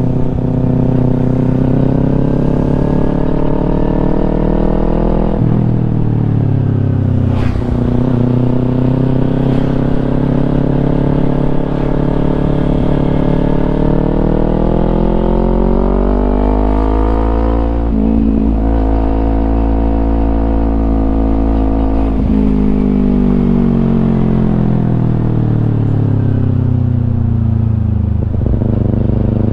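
Kawasaki Ninja 250 fuel-injected parallel-twin engine through a Yoshimura aftermarket exhaust, pulling through the gears. Its pitch climbs, drops sharply at a shift about five seconds in, then climbs again to a peak around eighteen seconds before falling away steadily as the bike slows, and picks up again near the end.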